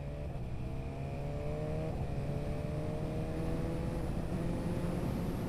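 BMW S1000RR's inline-four engine under way, its pitch rising gently, dipping briefly about two seconds in and then holding steady, over a steady rush of wind on the microphone.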